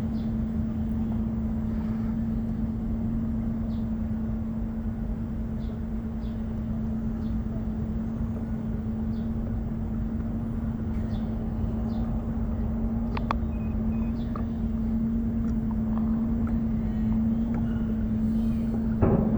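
A small motor pushing a kayak across the sea, a steady hum over a low rumble of wind and water. There is a brief louder knock near the end.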